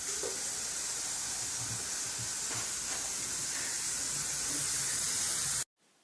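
A steady hiss, strongest in the high end, that cuts off suddenly near the end.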